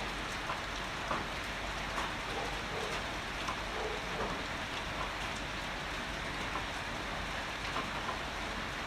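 Steady heavy rain, a constant hiss dotted with single drops tapping on a nearby surface.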